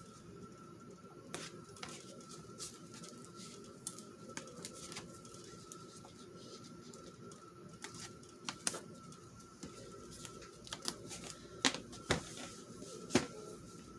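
Washi tape and paper being handled and pressed down on a journal page: scattered small clicks, taps and rustles, with a few sharper taps near the end, over a faint steady high hum.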